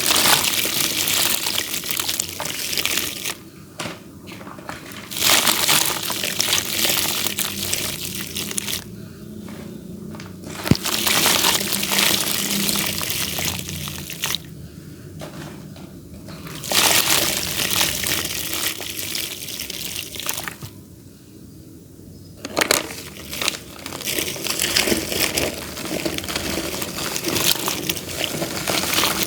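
Damp clay dirt crumbling and breaking apart into crumbs, a crisp gritty crackle. It comes in about five bouts of a few seconds each, with short quieter pauses between them.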